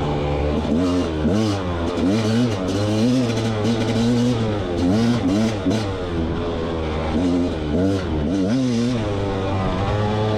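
300cc two-stroke enduro dirt bike engine revving up and down again and again under short bursts of throttle in low gears, with some clatter along the way.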